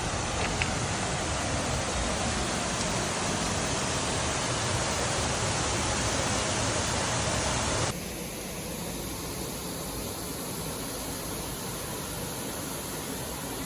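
Waterfall rushing: a steady wash of falling water that switches abruptly to a quieter, thinner rush about eight seconds in.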